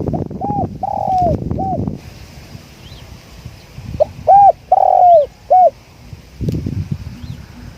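Spotted dove cooing: two three-note phrases, a short coo, a longer falling coo and a short coo, the second phrase louder and a few seconds after the first. Wind rumbles on the microphone at the start and again near the end, and small birds chirp faintly in the background.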